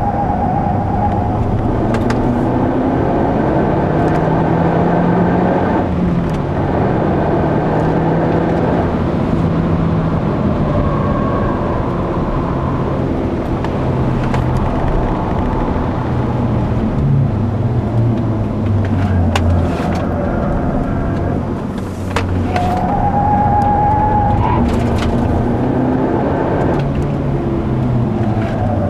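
Mazda 3 MPS's turbocharged 2.3-litre four-cylinder engine heard from inside the cabin on a circuit lap, its note repeatedly rising under acceleration and dropping off for shifts and braking. A few brief clicks are scattered through it.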